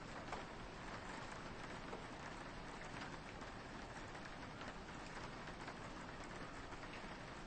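Soft rain on a window: a steady hiss of rainfall with many small drops ticking against the glass.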